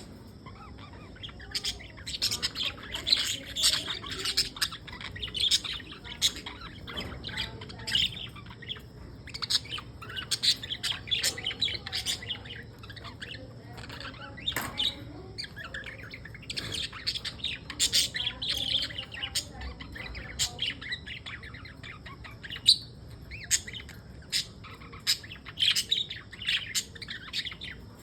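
Budgerigars chattering and chirping continuously, many short high chirps from several birds at once.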